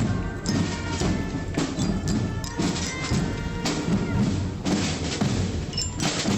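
Indonesian naval academy marching band playing: sharp drum strokes in a steady beat over held band tones.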